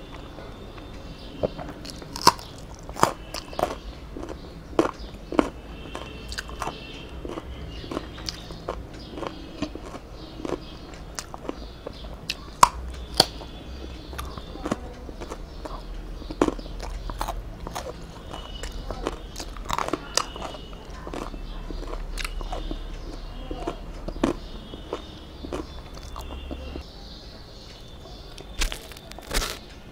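A person eating rice mixed with beetroot bharta by hand: chewing with wet mouth clicks and smacks that come irregularly, about one a second, along with fingers working the rice on the plate.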